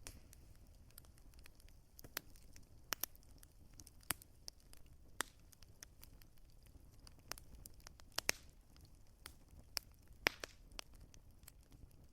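Wood fire crackling: irregular sharp snaps and pops, a few louder ones, over a low steady rumble of the burning fire.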